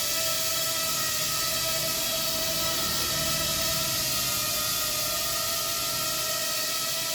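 Small electric motors spinning propellers of a homemade model plane, running steadily with a high whine over a hiss.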